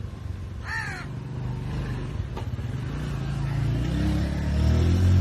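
A parrot gives a single short squawk about a second in, over a steady low rumble that swells near the end.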